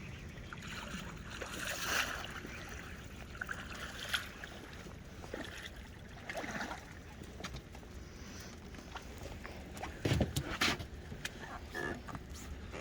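Knocks and clatter of gear being handled aboard a fishing boat over a steady low rumble, with a louder cluster of knocks about ten seconds in.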